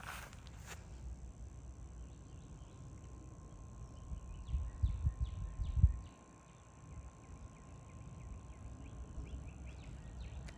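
Small birds chirping: a run of short, quick, downward-sliding calls repeated over and over. A few footsteps stop just under a second in, and a low rumble swells in the middle.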